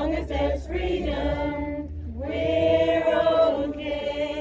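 A crowd singing together without accompaniment, the last phrase ending on a long held note.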